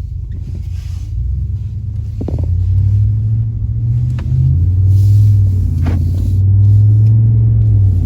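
Ram Rebel 5.7 Hemi V8 exhaust, muffler and resonator deleted, giving a deep rumble that builds as the truck pulls out and gets under way. It eases off briefly about halfway, then runs loud and steady.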